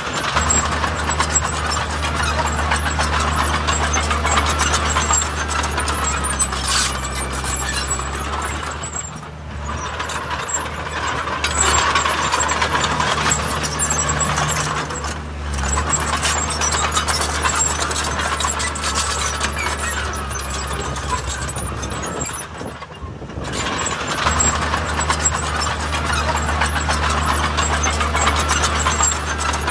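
Heavy diesel earthmoving machinery running under load, with a steady low engine drone and continuous metallic clatter. The sound breaks off abruptly three times.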